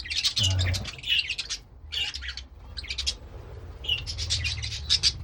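A flock of wild-type budgerigars (bush budgies) chattering and chirping in quick, overlapping warbles and squawks.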